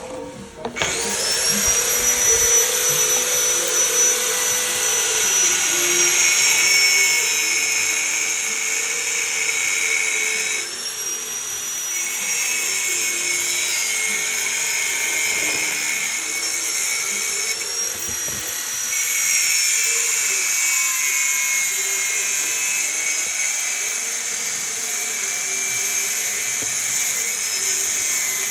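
High-speed power tool spinning up about a second in and running with a high, steady whine. Its pitch sags briefly twice, as if it is pressed against work, during the cleaning or grinding of engine parts.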